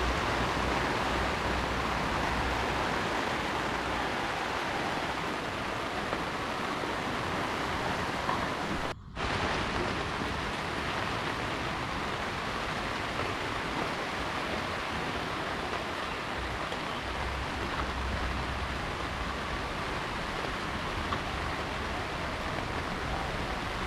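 Heavy rain falling in a steady, even hiss, briefly cutting out about nine seconds in.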